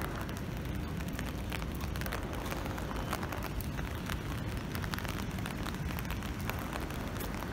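Steady rain falling, with many scattered drops ticking close by, over a low steady rumble.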